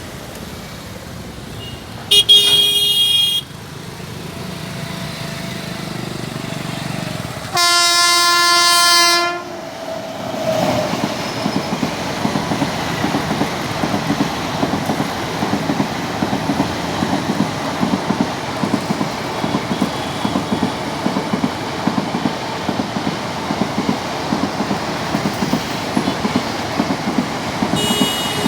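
Indian passenger train passing: a short high horn toot, then a locomotive horn blast of about a second and a half. After that the coaches pass, their wheels clicking steadily over the rail joints. Another short high toot comes near the end.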